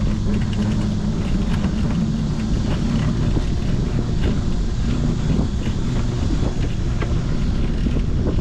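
Steady low rumble of riding along, with small clicks and rattles scattered through it.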